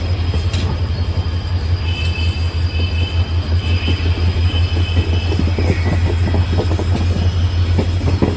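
Indian Railways passenger coaches rolling past on the rails: a steady rumble, with a high wheel squeal between about two and six seconds in. Wheel clatter over the rail joints grows stronger in the second half.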